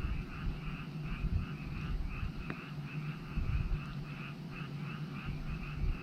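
A chorus of frogs croaking in a steady pulsing rhythm, about two or three calls a second, with a single sharp crackle from a wood fire about halfway through and a low rumble underneath.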